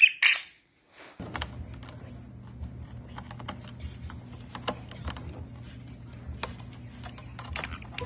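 A short, loud budgerigar chirp at the very start. After a brief gap come a steady low hum and irregular light clicks and taps: a white-bellied caique's claws on a countertop and its beak on a plastic tray.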